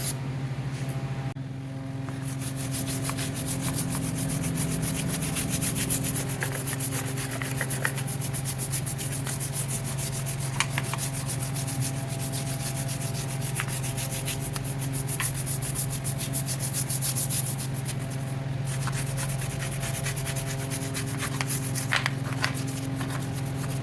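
Continuous rapid scrubbing or rubbing on greasy metal, as grease is worked off the tractor with a brush, with a few brief ticks over a steady low hum.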